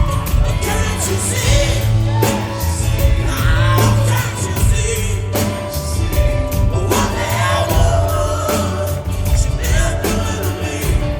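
Live rock band playing loudly, with singing over electric guitars, bass and drums.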